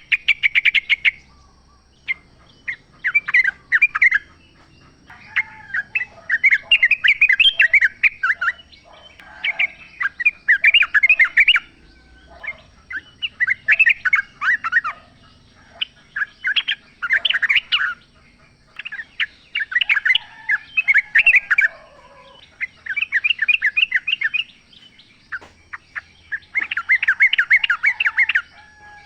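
Yellow-vented bulbul (trucukan) singing: a dozen or so bursts of rapid, bubbling chattering notes, each lasting a second or two, with short pauses between them.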